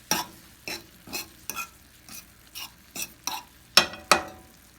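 A cooking utensil stirring chicken and red onion in a frying pan: repeated scrapes and knocks against the pan, about two a second, the loudest a little under four seconds in.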